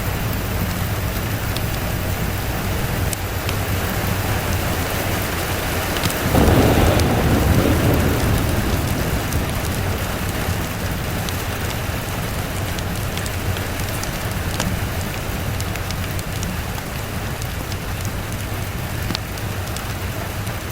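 Steady rain falling, with scattered small sharp ticks throughout. About six seconds in, a roll of thunder swells up and fades away over a few seconds.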